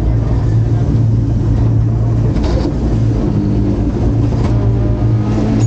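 Rally car engine running steadily under load, heard from inside the cabin.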